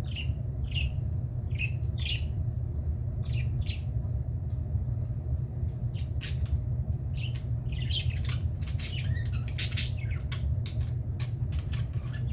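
Budgerigars squawking and chirping in short, sharp calls: a few spaced calls at first, then a dense flurry of chatter from about halfway. A steady low hum lies underneath.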